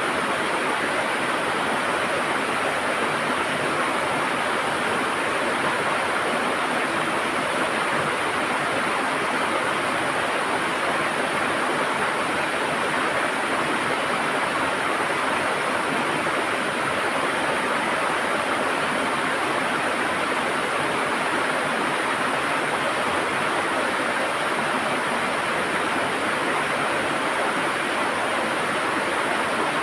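River water gurgling and rushing steadily, a continuous even wash of flowing water.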